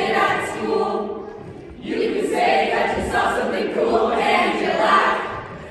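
A group of voices singing together, with a short break between phrases about a second and a half in.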